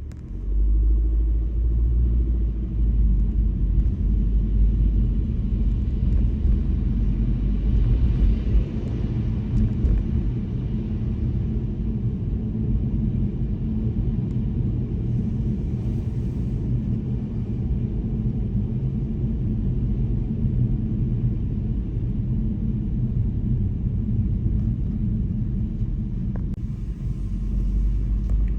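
Steady low rumble of a car driving on the road. It comes up sharply at the start as the car gets moving, eases about nine seconds in, and builds again near the end.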